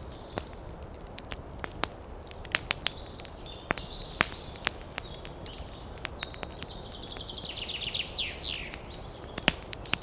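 Campfire crackling with irregular sharp pops over a steady low rush, while birds chirp; near the end a bird gives a quick run of downward-sliding notes.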